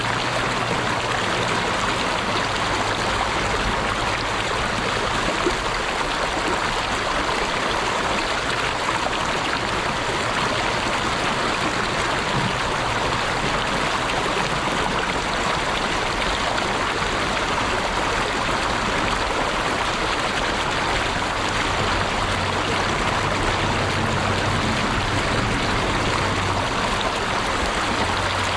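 Steady rushing and babbling of running water, as from a stream, with no pauses or changes.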